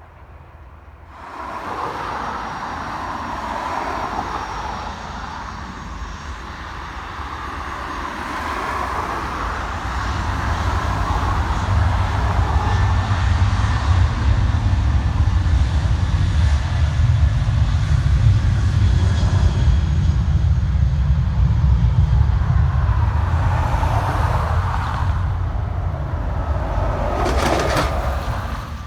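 Airliner passing close by, its engine noise building to a loud, deep rumble over the middle of the pass and easing off near the end.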